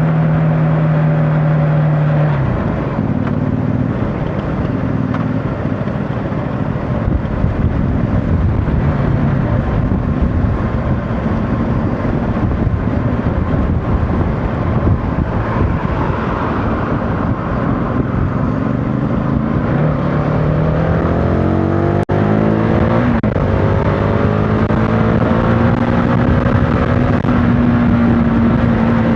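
Motorcycle engine running on the move over heavy wind and road noise. The engine note drops about two seconds in, later climbs steadily as the bike accelerates, breaks briefly with a click as a gear changes, then settles into a steady cruise.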